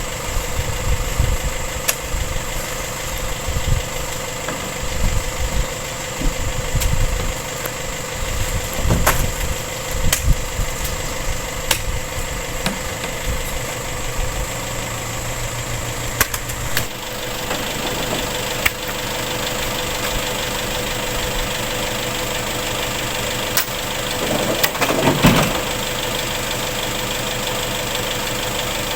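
An engine running steadily, with irregular low rumbling thumps through about the first ten seconds.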